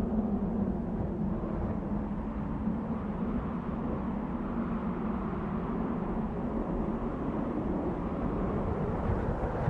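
Desert wind blowing, a steady low rushing noise with slow swells in strength.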